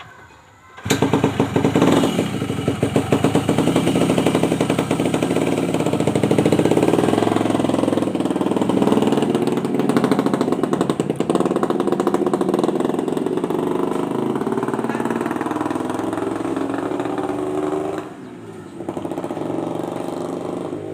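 Yamaha RX-King's 135 cc single-cylinder two-stroke engine running through an aftermarket exhaust tuned for a snoring (ngorok) note. It comes in loud about a second in, revved up and down, then settles to a quieter, steadier run near the end.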